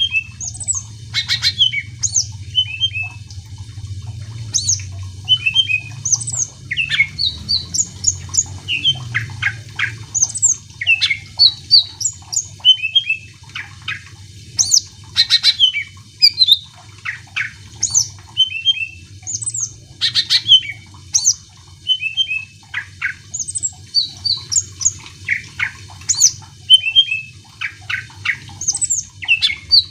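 Cucak ijo (green leafbird) in full song: a rapid, continuous run of varied short whistles and chirps, many sliding up or down in pitch.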